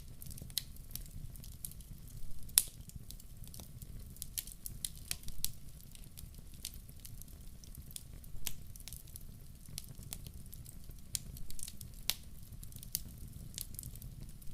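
Log fire in a wood-burning stove crackling, with irregular sharp pops, the loudest about two and a half seconds in, over a low steady rumble.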